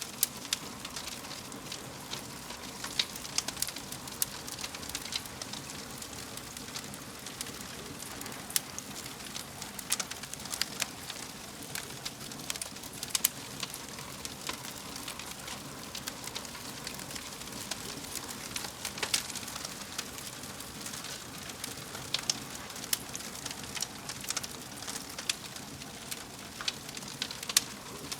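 Fire burning in a fireplace, crackling steadily with a soft hiss and frequent irregular sharp pops.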